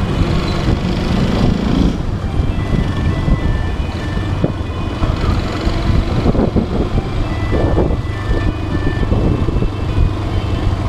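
Motorcycle engine running steadily while riding through city traffic, mixed with road and traffic noise.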